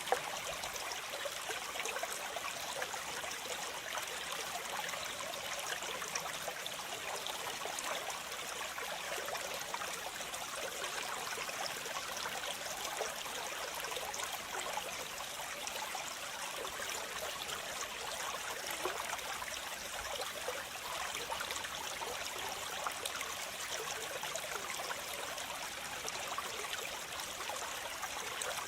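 Waterfall: water falling and splashing, a steady rushing hiss with no low rumble.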